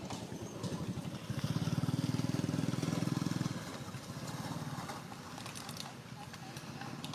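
A small engine running, its fast low pulsing louder from about a second and a half in until about three and a half seconds, then easing back.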